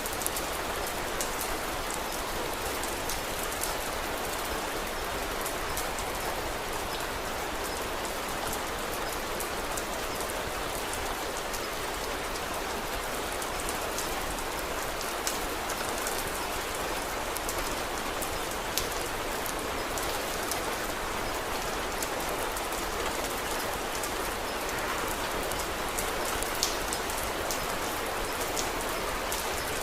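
Steady rain falling, an even hiss with many small sharp ticks and pops scattered through it; a few pops stand out, about fifteen, nineteen and twenty-seven seconds in.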